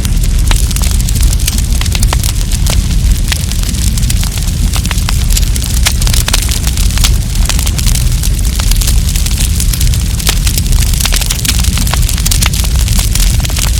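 Wood campfire crackling, with frequent irregular sharp snaps and pops over a steady low rumble.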